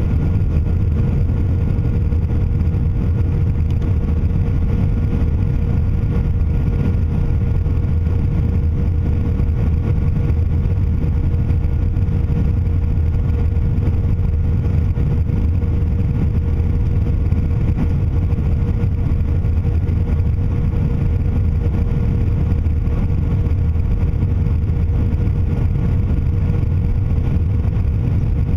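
Steady cabin noise of an Airbus A319 airliner in flight: a deep, even rumble of engines and airflow with a constant hum tone over it.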